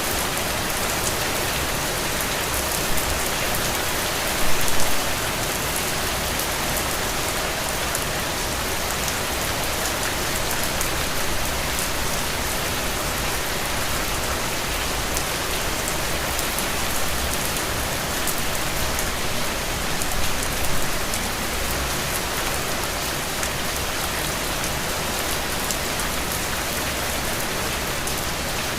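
Steady rain falling on a road: a dense, even hiss with fine drop ticks, and two brief louder spatters, one about four to five seconds in and one about twenty seconds in.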